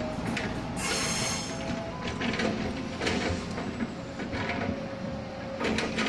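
An electric multiple-unit train pulling away from the station, its wheels clicking repeatedly over the rails under a faint steady motor whine, growing slightly fainter. There is a brief hiss about a second in and another near the end.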